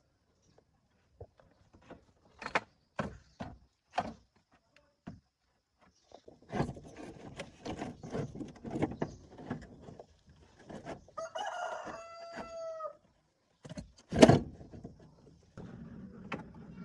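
A rooster crows once, a long call about 11 seconds in, amid scattered knocks and clatter; a sharp knock just after the crow is the loudest sound, and a low steady hum comes in near the end.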